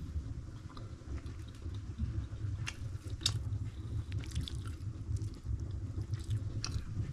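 A man chewing and eating cooked pumpkin close to the microphone: scattered small mouth clicks over a low, steady rumble.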